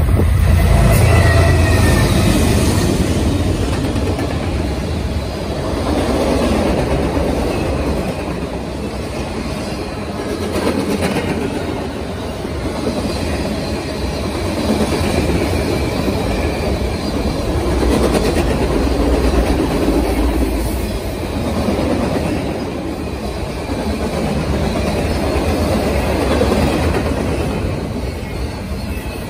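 Norfolk Southern freight train passing close by. The lead diesel locomotives go by first, loudest about a second in, then a long string of freight cars rolls past on the rails, swelling and fading in waves.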